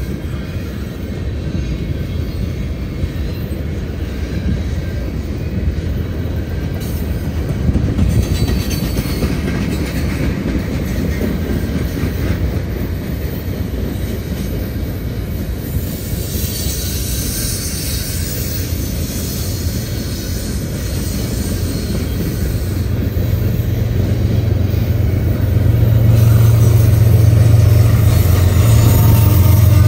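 Freight cars rolling past with a steady wheel-on-rail rumble and clatter. About two-thirds of the way through, a diesel locomotive's low engine drone comes in and grows louder: the train's rear distributed-power unit drawing near.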